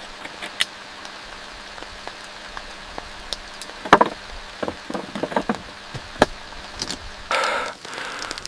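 Steady rain hiss with scattered drips and knocks, a cluster of louder knocks about four to five and a half seconds in, and a short rush of noise near the end.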